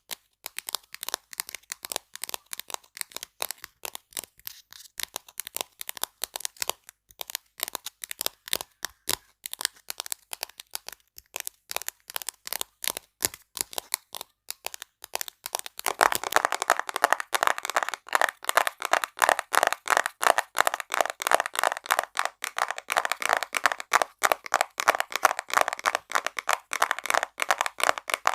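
Rapid ASMR tapping on small objects, a quick run of sharp clicks. About halfway through, the tapping moves to a different item and becomes louder and fuller in tone.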